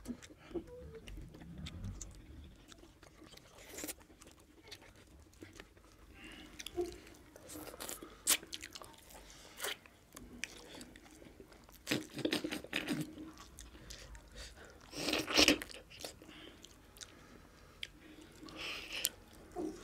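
Close-up eating sounds of someone chewing mutton curry and rice, with short wet clicks and smacks scattered through. The loudest is a cluster about fifteen seconds in.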